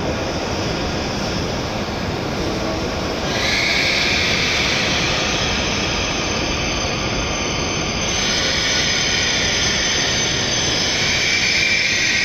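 W7-series Hokuriku Shinkansen train running slowly alongside the platform as it pulls in to stop: a steady rush of wheel and running noise, with a brighter hiss coming in about three seconds in.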